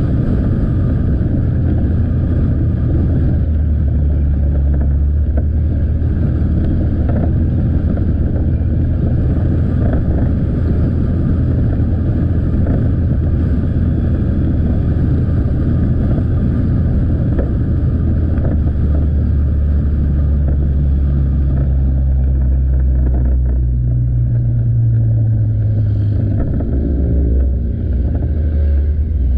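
Motorcycle engine running steadily under way, with road and wind noise. Near the end the engine note dips and then rises again as the speed changes.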